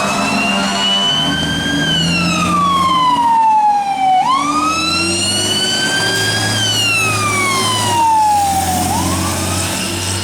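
Fire engine siren wailing, its pitch rising and falling in slow sweeps of about four and a half seconds each, over the low sound of the truck's engine.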